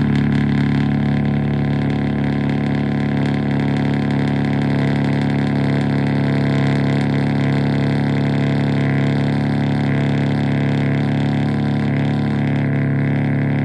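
A BMW M3 Competition's S58 twin-turbo inline-six, exhaust fitted with an equal-length mid pipe, idling steadily with an even, unchanging tone.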